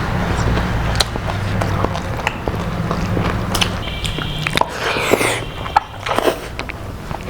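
Close-miked eating sounds: biting and chewing, with frequent sharp crunchy clicks, over a low steady hum that fades out about four seconds in.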